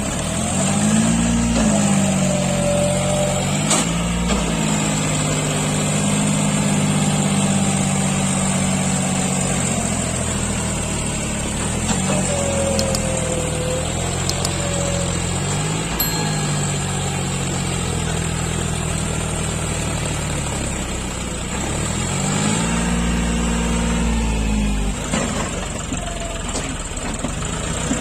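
John Deere four-wheel-drive tractor's diesel engine running, its pitch rising and dropping several times as the revs go up and down.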